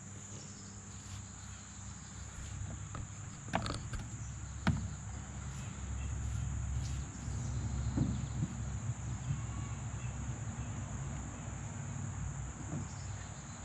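Steady high-pitched chorus of crickets, under a low rumble of handling or wind noise that grows about halfway through. Two sharp knocks come a second apart, about three and a half seconds in.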